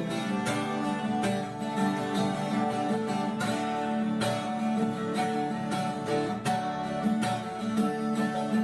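Background music: acoustic guitar playing, strummed and plucked, with a steady pulse.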